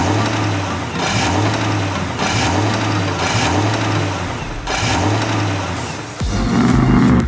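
Motor of a home-made mini tractor running, its sound swelling and easing about once a second. A louder, lower rumble comes in near the end.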